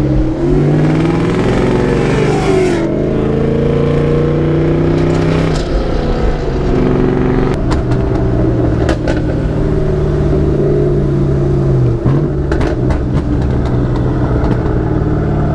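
Loud car engine and exhaust, revving up in the first couple of seconds and then running at a steady pitch, with a brief dip about twelve seconds in.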